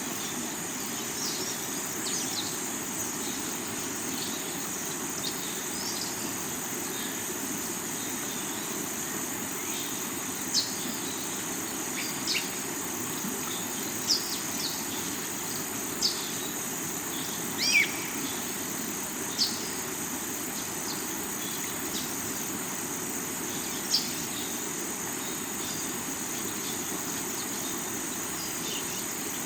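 Steady rush of a river over rocks, under a constant high insect drone. Short bird chirps stand out every couple of seconds through the second half.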